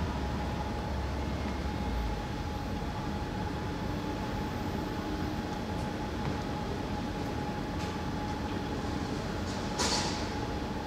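Sagami Railway electric commuter train at the station: a steady hum over running noise, with a low rumble that fades out about two seconds in and a single sharp clank near the end.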